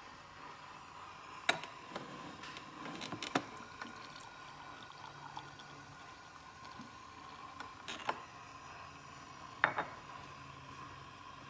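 Coffee maker being handled: a few sharp clicks and knocks, the loudest about a second and a half in, around three seconds in, and near the end, over a steady faint hum.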